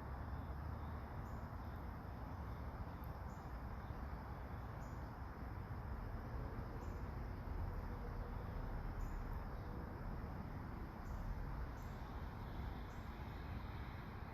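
Faint, short, high chirps of crickets repeating about once a second over a steady, low outdoor background rush.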